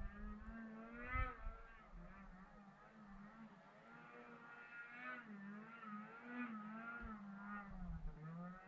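Wind gusting on the microphone, with a steady moaning tone that wavers slightly in pitch running over it. The gusts are heaviest at the start, about a second in, and near the end.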